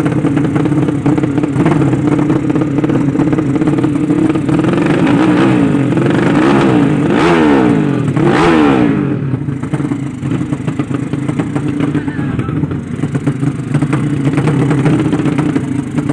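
Drag-racing underbone motorcycle engines revving hard over a steady engine drone; about five seconds in, rising and falling pitch sweeps build, loudest around seven to nine seconds, then fall away.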